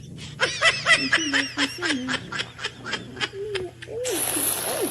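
An animal making a quick run of short, high, squeaky chirps, several a second, followed by a steady hiss for about the last second.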